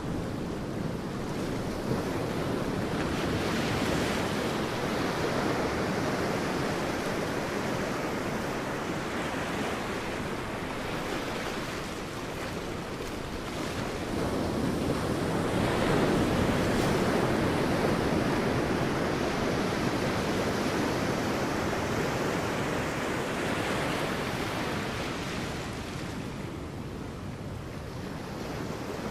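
Sea waves washing onto a beach: a steady rush of surf that swells twice, a few seconds in and again about halfway through, and eases off between.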